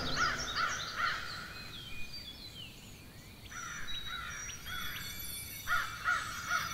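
Forest birdsong: one bird repeats a short call about three times a second in two bouts, the second starting about halfway in, while other birds chirp higher.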